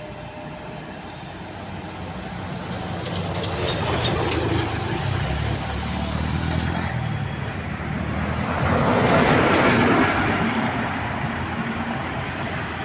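Motor vehicle engine running amid road traffic noise, growing louder to a peak about nine seconds in and then easing off.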